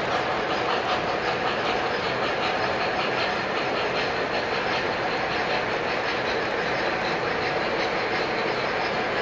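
Model trains running on a layout: a steady rolling sound with faint, rapid clicking of wheels over the track.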